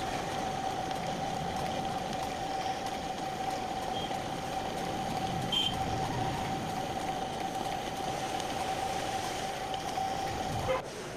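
Lathe running, a steady high whine over a rushing mechanical noise. The whine cuts off suddenly near the end.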